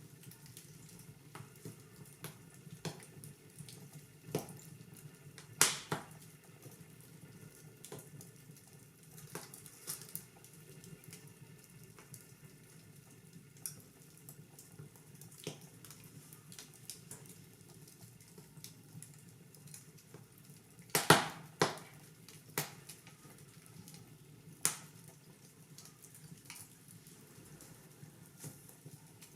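Fire in a fireplace crackling over a steady soft hiss, with scattered sharp pops; the loudest pops come in a quick cluster about two-thirds of the way through.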